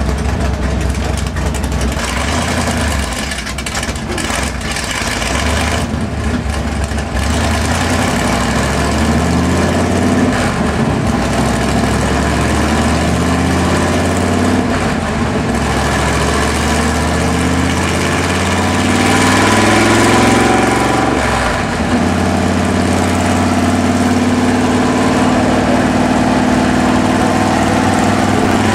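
1970 Chevy C10 pickup's engine running under load on a chassis dyno. Its pitch climbs in several rising steps from about eight seconds in, dips briefly, then holds steady and higher near the end.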